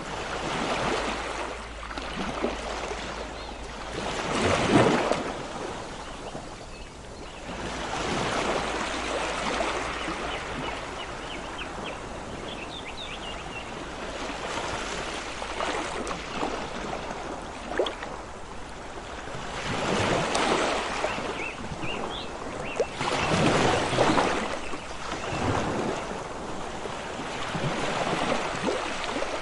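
Ocean waves surging and washing in, one swell after another every few seconds, the loudest about five seconds in.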